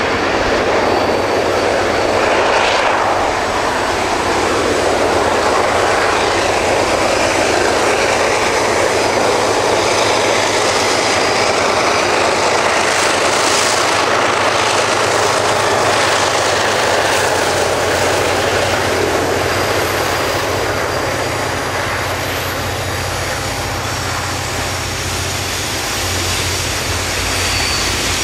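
Two KiwiRail diesel-electric locomotives, a DF-class and a DX-class, running under power as they approach and pass close by, followed by the steady rumble of a long rake of milk tank wagons rolling past on the rails.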